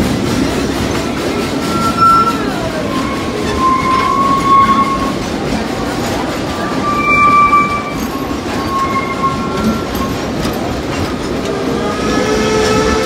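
Open-sided passenger cars of a steam train rolling past with a steady rumble of wheels on the track, broken by several brief high wheel squeals. Near the end a held chord of several tones comes in.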